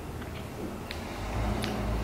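Quiet chewing of a soft snack cake, with two small sharp clicks about a second and a second and a half in, from the plastic wrapper or the mouth.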